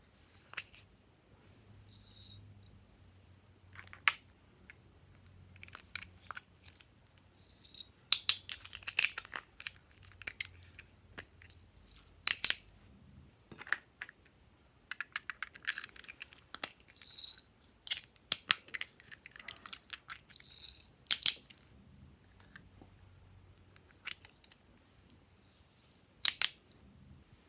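Glossy slime being squished, folded and stretched by hand, giving irregular sticky crackles and sharp clicking pops.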